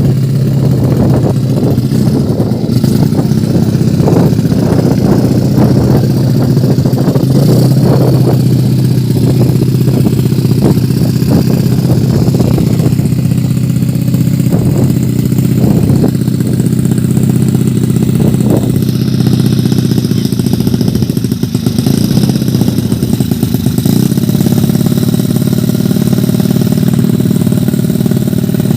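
115cc underbone drag bike's sleep-engine running at a steady idle, with a few short throttle blips in the first half.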